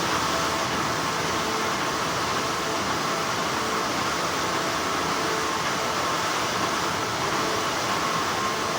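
Textile factory machinery running with a steady hum: an even noise with faint steady tones in it and no sharp sounds standing out.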